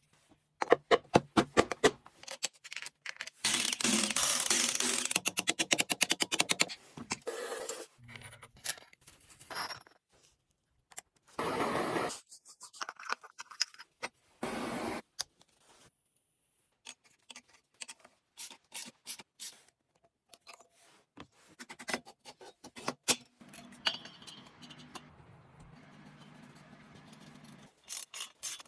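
Workshop hand-tool work: a run of scraping, scratching and clicking sounds, with a stretch of fast, even rasping strokes a few seconds in and two short bursts of scraping noise in the middle.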